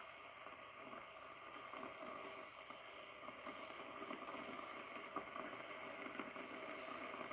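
Running water of a river and waterfall rushing steadily, slowly growing louder.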